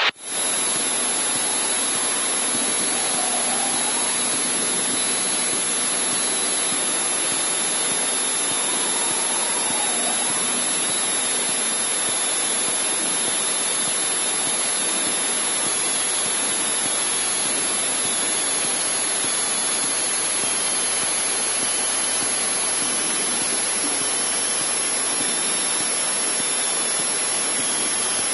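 A steady, even hiss that holds the same level throughout, with a faint high whine running through it.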